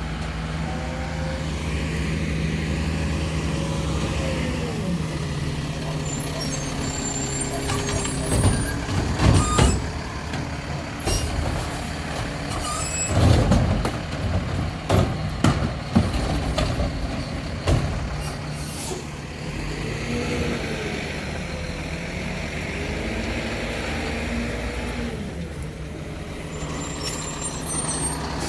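Mack LEU garbage truck with a McNeilus Meridian front-loader body and Curotto Can arm working a pickup: the diesel engine runs steadily under a hydraulic whine that rises and falls. In the middle comes a run of loud clanks and bangs as the can is lifted and dumped, with a hiss of air brakes.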